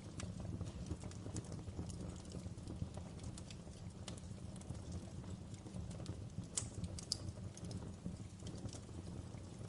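Wood fire crackling in a fireplace: irregular small snaps and pops over a low steady rumble, with a few louder pops about two-thirds of the way through.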